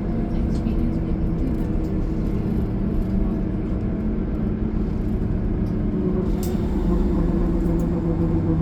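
Steady drone of a bus interior while riding: engine and drivetrain hum with road noise. Several steady hum tones grow a little stronger about six seconds in, and a few faint ticks or rattles come through.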